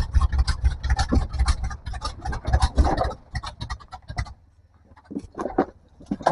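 Off-road rig's engine running low under a dense, irregular crackle and crunching of tyres working over rock and dirt. About four seconds in, the engine rumble cuts out: the engine has shut off. Only scattered clicks remain after that.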